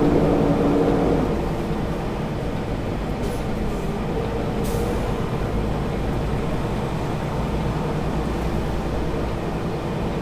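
Semi-truck's diesel engine running steadily, with a steady tone that stops about a second in and a short hiss near the middle.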